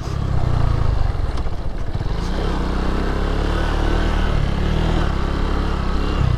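Lifan KP Mini 150's single-cylinder four-stroke engine running under throttle during a wheelie attempt. Its pitch settles after about two seconds and then wavers slightly.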